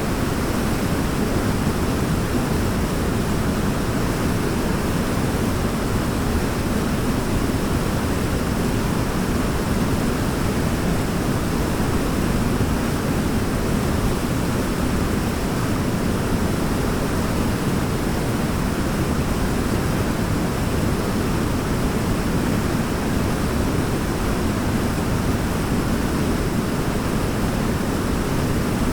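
Forest waterfall rushing: a steady, unbroken roar of falling water, deepest in the low range, with no change in level.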